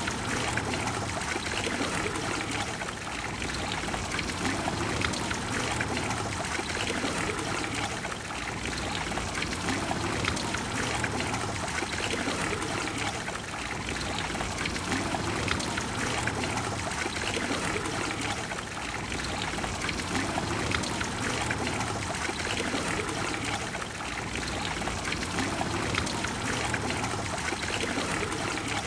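Trevi Fountain's water falling and flowing into its basin: a steady, even rush of splashing water that swells and eases a little every few seconds.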